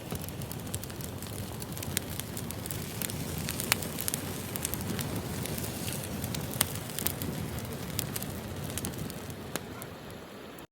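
Wood fire crackling: a steady hiss with irregular sharp pops, a few of them louder.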